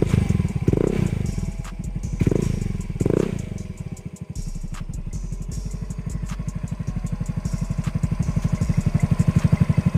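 Small motorcycle engine running through an R8 aftermarket 'chicken' exhaust pipe, its pulses coming in a quick, even beat. Three short swells in pitch come in the first few seconds, then the engine settles and grows louder toward the end. It is a cold start, with the engine not yet warm.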